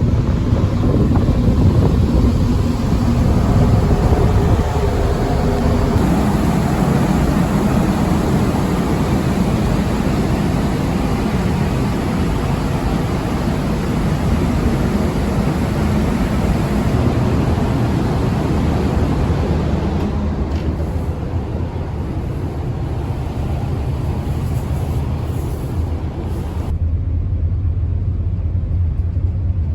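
Ferry running underway: a steady low engine rumble with wind and sea rushing over it. Near the end the rushing cuts off suddenly, leaving the low engine hum.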